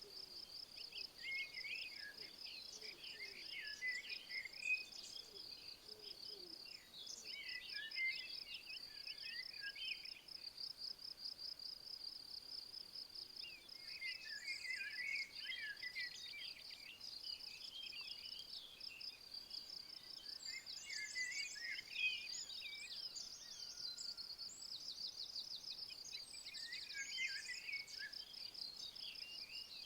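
A high, finely pulsing insect trill, typical of a cricket or bush-cricket, running without a break, with a songbird singing short, varied phrases in repeated bouts every few seconds.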